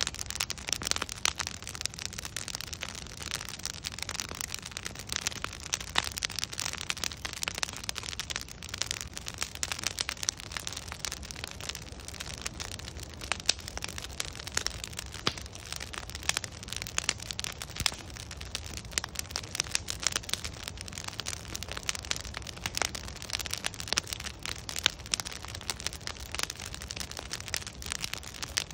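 Wood fire burning: logs crackling with many irregular sharp pops and snaps over a steady hiss and low rumble.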